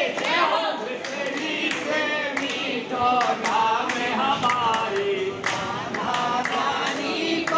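Group of voices singing a Hindu devotional hymn together, with sharp percussive beats keeping time roughly twice a second.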